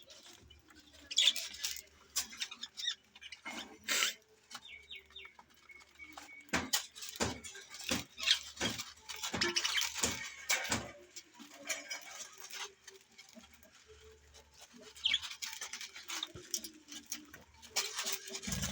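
Pet budgies chirping and chattering, with scattered sharp clicks and taps, thickest in the middle stretch.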